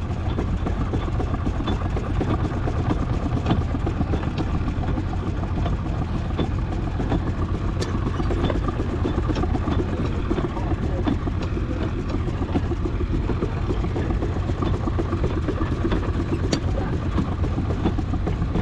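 Miniature steam traction engine running as it crawls along in bottom gear over uneven ground: a steady low rumble with scattered light clicks and knocks.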